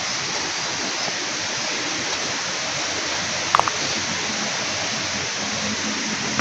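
Steady, unbroken rush of water noise. A brief high chirp comes about three and a half seconds in.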